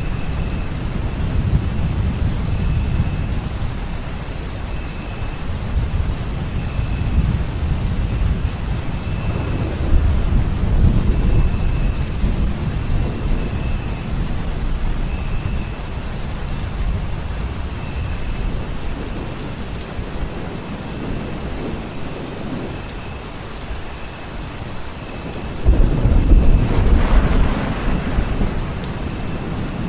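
Steady heavy rain with low rolling thunder, the rumbling swelling about ten seconds in and loudest near the end.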